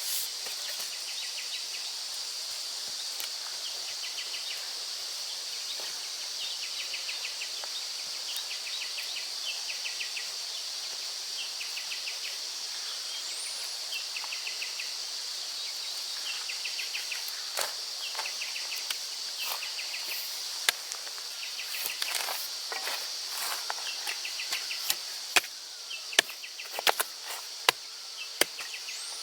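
A steady, high-pitched insect chorus with short repeated trills. From a little over halfway, sharp knocks like chopping blows come in, growing more frequent in the last few seconds.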